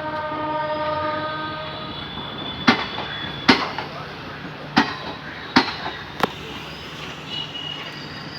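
Train horn sounding a steady chord-like note that stops about two seconds in, followed by sharp clacks of the coaches' wheels crossing rail joints, coming in pairs as the passenger train rolls slowly out.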